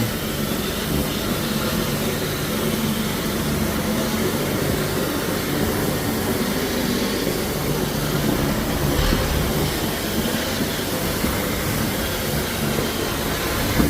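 A machine running steadily, a continuous rushing noise with a low hum under it.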